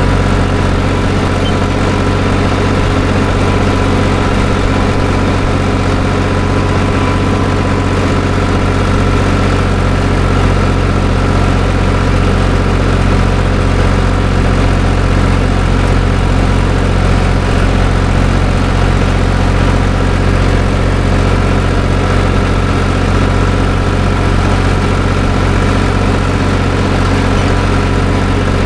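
Tractor engine running steadily at a constant speed, with no change in pitch or loudness.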